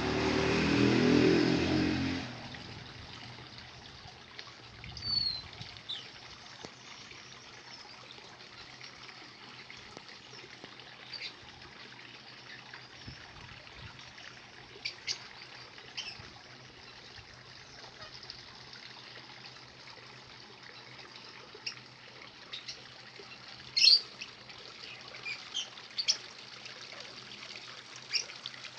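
Wild birds giving scattered short, high chirps over a faint steady hiss like trickling water. A loud low rumbling noise fades out about two seconds in.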